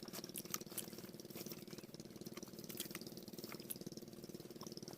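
Faint, steady running of a diesel water pumpset's engine: a fast, even chugging with a few light clicks.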